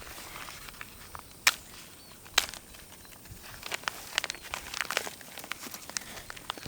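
Close-up sounds of hands-on ground work: two sharp clicks, then a quick run of crackles and ticks over a faint outdoor background.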